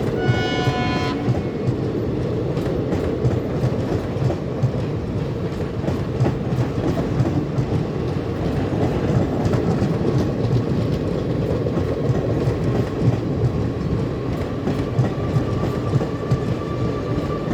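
Express passenger train running on the rails, a steady heavy rumble with wheels clicking over rail joints throughout. About a second into it, a locomotive horn gives one short blast.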